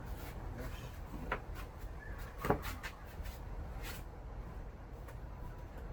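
Handling noises as scrap is sorted by hand: scattered clicks and knocks, with one sharper knock about two and a half seconds in, over a low steady rumble.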